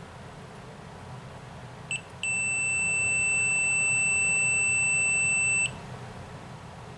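Multimeter continuity beeper across the ignition points of a Tecumseh H60 engine: a short blip about two seconds in, then a steady high beep lasting about three and a half seconds that cuts off suddenly as the stator is turned. The beep means the points are closed; its stopping means the points have opened, the moment the engine fires.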